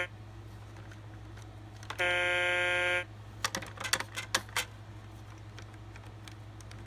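A toy robot truck's speaker sounds a one-second electronic buzz tone, the same tone that sounded just before. It is followed by a quick run of sharp plastic clicks.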